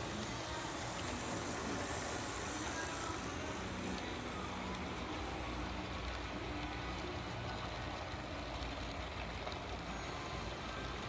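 HO-scale model trains running on a layout, giving a steady mix of rolling and motor noise.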